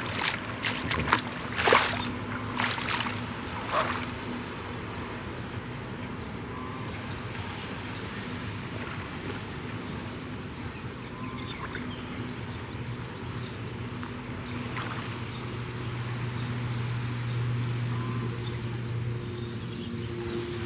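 A boat engine running steadily in a low hum, getting louder toward the end. A few sharp noises in the first four seconds.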